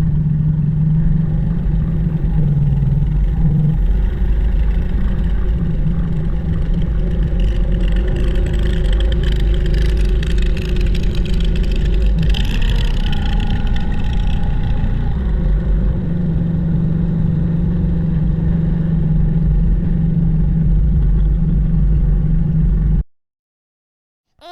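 Engine of a Drott 85RM2 hydraulic crane running steadily, stopping abruptly near the end.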